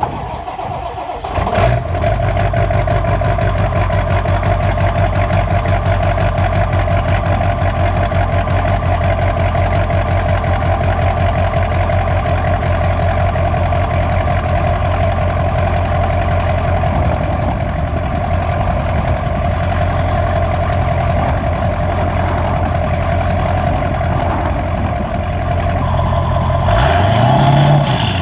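1997 Ford 7.3 L Powerstroke V8 turbodiesel on a cold start: it catches about a second and a half in and settles into a steady idle with a steady whine over it, then is revved up near the end.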